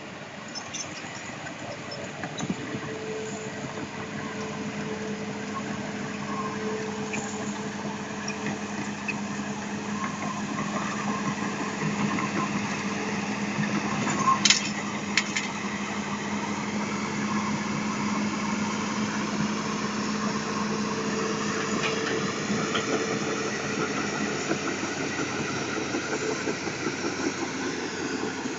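Isuzu 6BG six-cylinder diesel engine of a Hitachi Zaxis200-5G excavator running at a steady speed, with two sharp clicks about halfway through.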